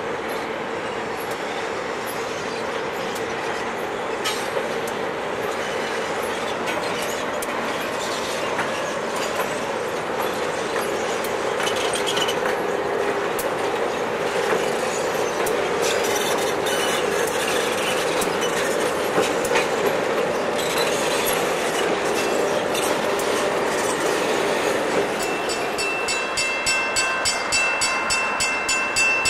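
A train of diesel locomotives rolling past: a steady rumble with wheels clicking over rail joints. Near the end the sound changes to a regular pulsing with high ringing tones as another locomotive approaches.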